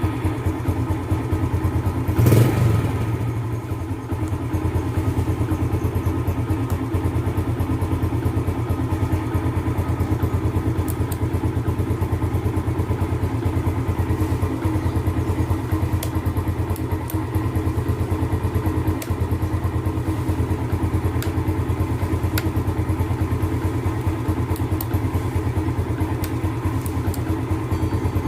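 Yamaha Jupiter Z's single-cylinder four-stroke engine idling steadily, with a brief louder knock or burst about two seconds in.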